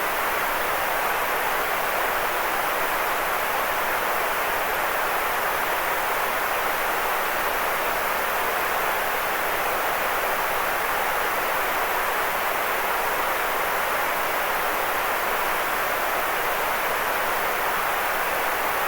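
Steady, unchanging hiss of electronically generated white noise. It is strongest in the middle range and thin in the bass.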